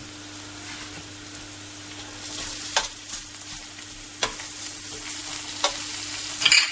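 Chopped onion and garlic sizzling gently in olive oil in a steel paella pan for a sofrito, with a soaked ñora pepper frying alongside. A slotted metal spoon stirs through them, clinking and scraping against the pan four times in the second half.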